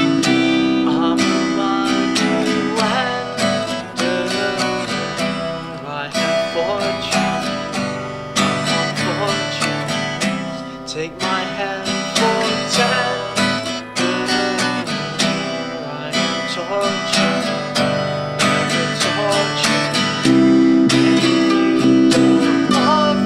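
Acoustic folk band playing: strummed acoustic guitar with picked mandolin and bass. The playing grows louder near the end.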